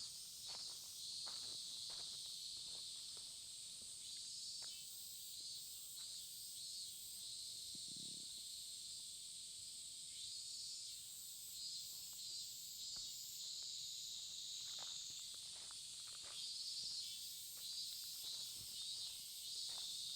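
A steady, high-pitched chorus of insects trilling, with soft, regular footsteps of someone walking. About fifteen seconds in, the highest part of the insect sound steps up slightly in pitch.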